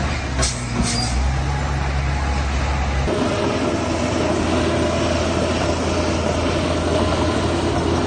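Heavy earthmoving machinery's diesel engine running steadily, with two short sharp clanks near the start. About three seconds in the engine note changes: the deepest hum drops away and a higher steady tone takes over.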